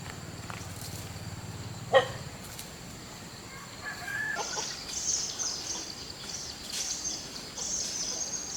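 Farmyard birds calling: one sharp short call about two seconds in, then a run of high, irregular chirping from about four seconds on. A low steady hum stops about two seconds in.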